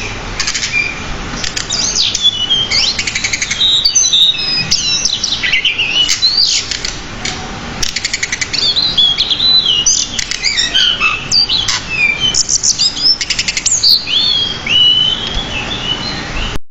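Pied bushchat singing a fast, unbroken song of varied whistled notes and chirps packed with mimicked phrases, broken every few seconds by quick rattling trills.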